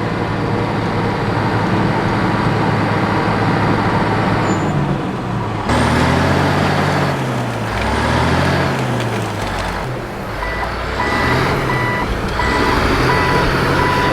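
Caterpillar D8 bulldozer's diesel engine working under load, its pitch dipping and rising several times as it pushes. In the last few seconds a backup alarm beeps repeatedly as the dozer reverses.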